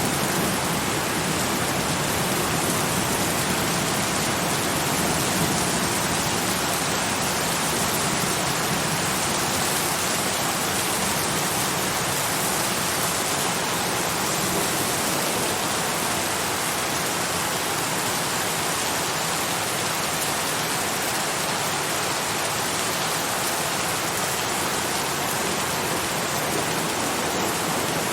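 Steady, heavy rain falling: an even hiss of raindrops with no let-up.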